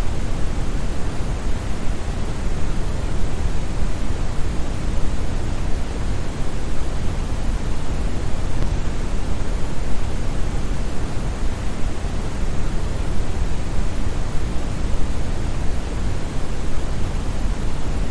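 Synthetic brown noise: a steady, deep hiss with most of its energy in the bass and little in the treble, unchanging throughout.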